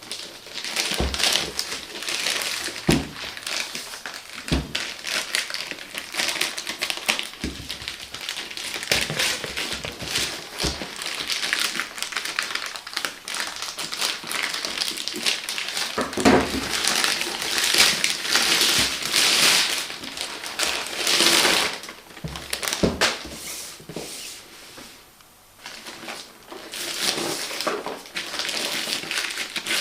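Plastic packaging crinkling and rustling as it is unwrapped and handled, with a few short knocks of items being set down or bumped.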